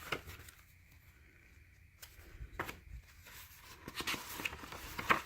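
Faint handling of paper: a few soft ticks and light rustles as the pages of a handmade paper journal are handled, busier near the end.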